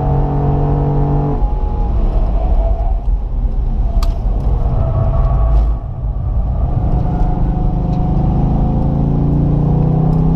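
Holden Commodore Motorsport Edition's 6.2-litre V8 driven hard on a racetrack. The engine note drops about a second and a half in and stays lower and uneven for a few seconds, with a sharp click near the middle. It then climbs steadily as the car accelerates through the last few seconds.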